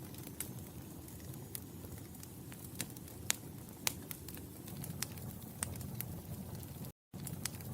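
Fireplace fire crackling: a steady low rumble of flames with irregular sharp pops and snaps. The sound cuts out completely for a split second about seven seconds in.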